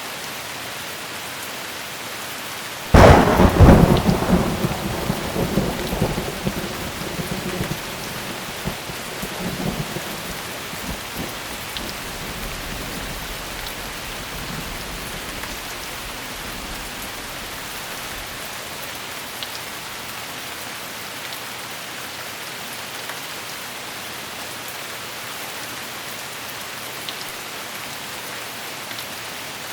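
Steady heavy rain with a single close thunderclap: a sudden sharp crack about three seconds in, followed by rumbling that rolls on and fades over the next several seconds, leaving the rain alone.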